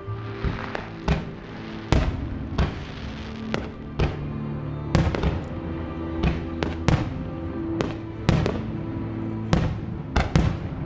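Fireworks shells bursting in irregular succession, about fifteen sharp bangs with echo trailing after each, over the show's background music.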